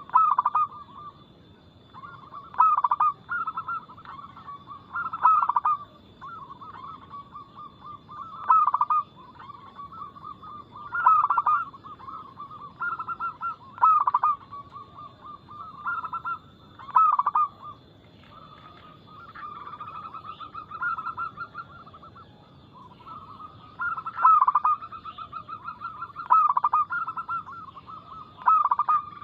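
Zebra doves (perkutut) cooing: loud rolling coo phrases repeat every two to three seconds over a fast, trilling run of softer notes.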